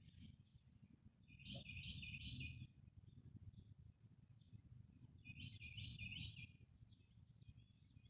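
A bird calls twice, about four seconds apart, each time a short high phrase of three quick notes, over a faint low background rumble.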